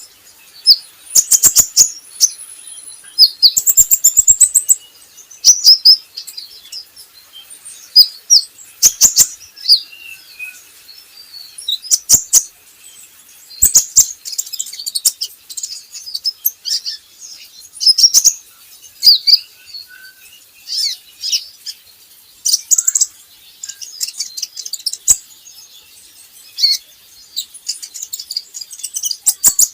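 Kolibri ninja (konin) sunbird singing: bursts of high, sharp chirps and rapid twittering trills, broken by short pauses, with some sharp clicks.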